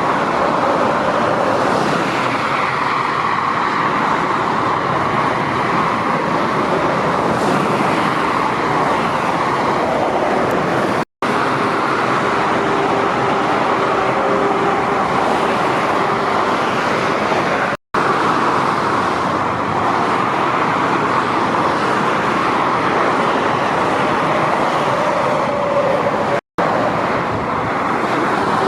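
Steady motorway traffic: trucks and cars passing on the autobahn, a continuous rush of tyre and engine noise with faint engine tones. The sound cuts out to silence for an instant three times, at edits between clips.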